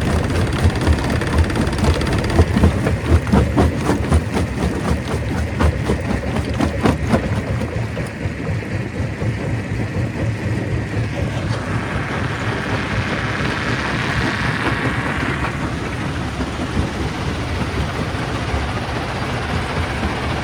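Stone crusher machine running under load, with rocks knocking and clattering through it for the first several seconds, then settling into a steadier engine-like rumble.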